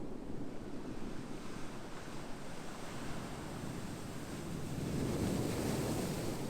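Ocean surf: a steady rushing wash of waves that swells into a louder breaking wave near the end.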